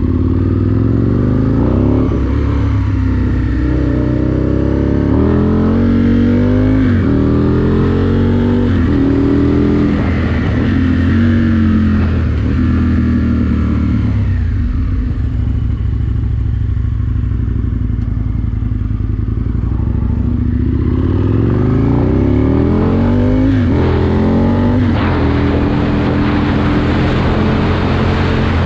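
Aprilia Tuono 1000R's V-twin engine accelerating through the gears, its pitch climbing and dropping back at each shift several times over. It then runs lower and steadier for several seconds before pulling up through the gears again near the end.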